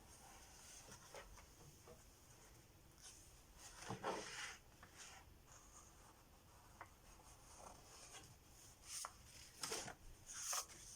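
Near silence: quiet room tone with a few faint rustles and light taps, loudest about four seconds in and again near the end.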